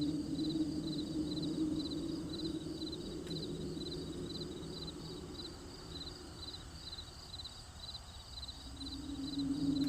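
Crickets chirping at night in a steady, even rhythm of about two short trilled chirps a second. Under them runs a low steady drone that fades away in the second half and returns near the end.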